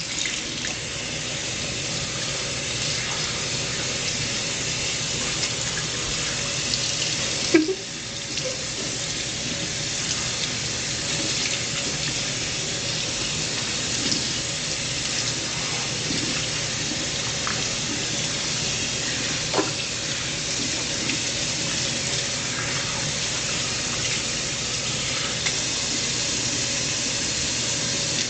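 Bathtub tap running steadily, with a single brief knock about seven and a half seconds in, after which the water sounds briefly softer.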